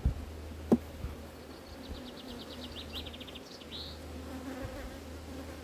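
Honeybees buzzing steadily around an open hive. A sharp click comes about a second in, and a fast, high-pitched trill sounds in the background around the middle.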